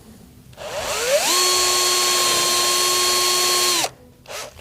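Power drill starting up about half a second in. Its whine rises to a steady pitch, runs for about two and a half seconds and then stops abruptly. It is drilling a screw hole in a ski for mounting a binding.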